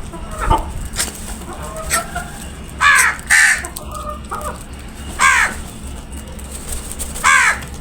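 Crows cawing: four loud, harsh caws in the second half, with fainter calls between them.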